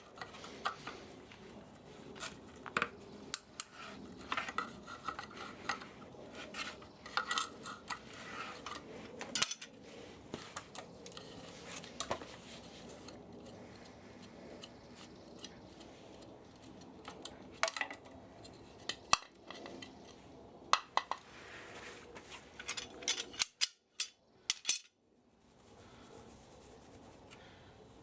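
Hand tools and metal parts of an old spa motor clinking and clicking as the motor is dismantled for scrap metal, in irregular sharp knocks with busier and quieter stretches. The knocking stops a few seconds before the end.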